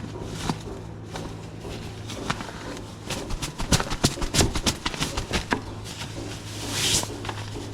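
Nylon fabric of a down sleeping bag rustling and crinkling as it is handled, with a quick swishing rush near the end, over a steady low hum.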